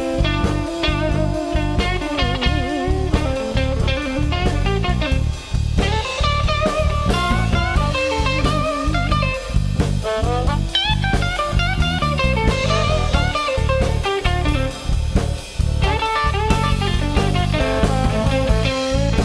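Blues band playing an instrumental break: a lead solo on a plucked string instrument with bent, wavering notes, over a steady bass and drum beat.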